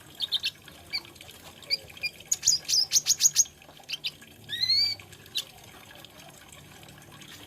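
Kolibri ninja (konin) sunbird singing: sharp high chirps, a rapid run of about seven notes, then one slurred whistle that rises and falls, before the song stops for the last couple of seconds.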